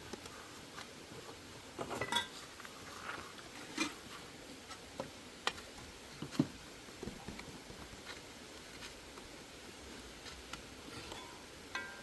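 Scattered clinks and knocks of pots, dishes and utensils being handled, with a few sharper knocks about two, four, five and a half and six and a half seconds in.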